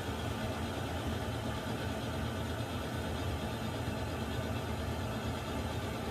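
Water heater running with a steady low rumble and an even hiss above it, unchanging throughout.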